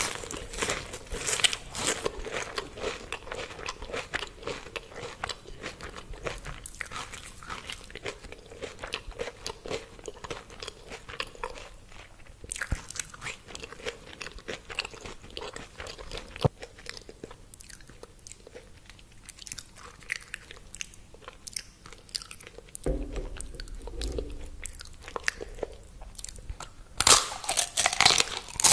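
Crunchy fried food (fries, spring roll, chicken nuggets) being bitten and chewed close to the microphone, a run of crisp crackling crunches that grows louder near the end.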